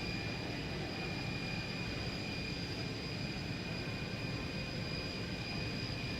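Airliner's jet engines running at idle as it taxis in to the gate: a steady rumble with a high whine held at one pitch.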